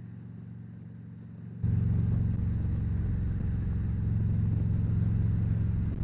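Harley-Davidson Road Glide's V-twin engine running steadily on the road, with wind and road noise. About a second and a half in, it suddenly becomes much louder and stays that way.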